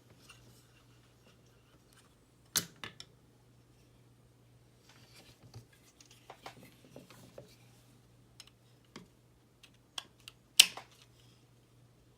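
Small hand screwdriver working tiny screws into model-kit parts: scattered light clicks and scraping of the tool, screw and parts, with two sharper clicks about two and a half seconds in and near the end.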